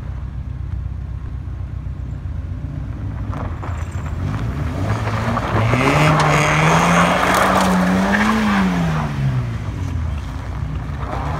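A car engine revs up, the pitch climbing for about three seconds, then drops back down. There is a loud rushing noise around the peak, which could be tyres spinning or squealing.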